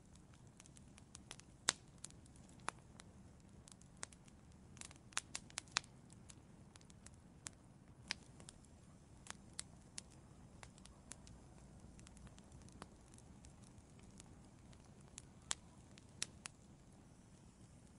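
Wood fire in an outdoor fireplace crackling: irregular sharp pops and snaps, bunched together about five seconds in, over a faint low rumble.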